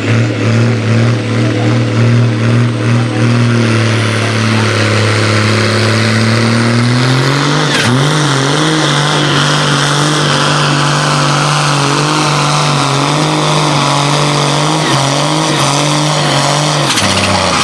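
A competition pulling vehicle's engine running hard at high revs under load. Its pitch steps up about halfway through, holds steady, then drops near the end, while a high whine slowly falls in pitch.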